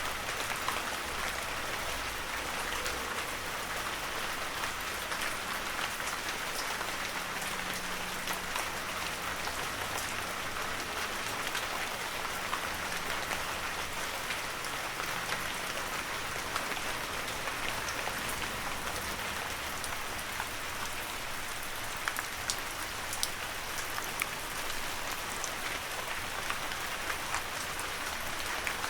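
Heavy rain falling steadily, an even hiss with scattered sharp drop impacts.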